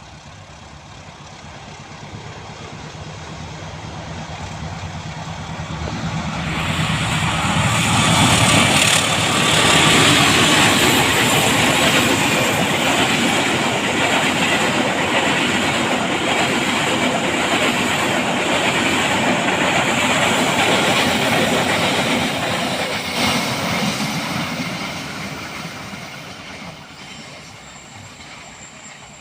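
Diesel-hauled train passing on a curve. The locomotive's engine hum builds as it approaches, then the cars roll by with loud wheel and rail noise for about fifteen seconds, and the sound fades away over the last few seconds.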